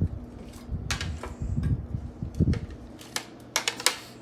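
Spoon tapping and scraping against a blender jar and cup while thick smoothie is scooped out: irregular sharp clicks and knocks, with duller knocks in the first half.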